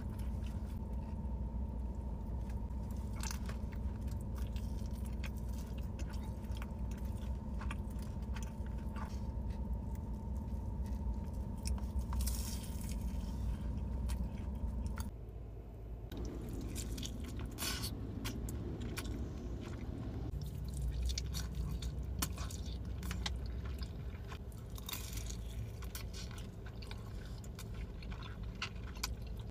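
Close-up chewing and biting of crispy fried food, with many sharp crunches over a steady low hum. The background changes abruptly about halfway through.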